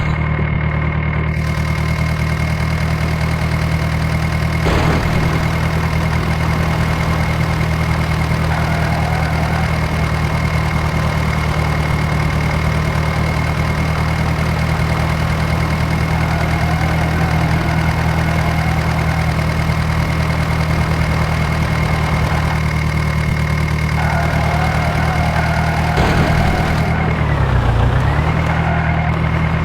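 John Deere 5055 tractor's diesel engine running steadily at a constant speed. Near the end the engine speed dips briefly and comes back up.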